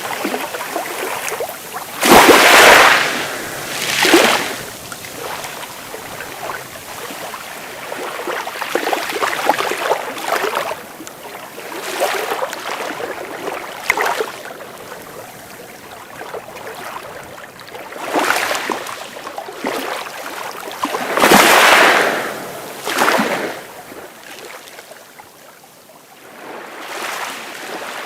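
Sea waves breaking and washing ashore, an irregular hiss with louder surges, the strongest about two seconds in and again about 21 seconds in.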